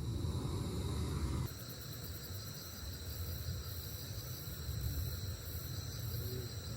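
Crickets chirping in a steady chorus, several high, even trills layered together over a low rumble of background noise.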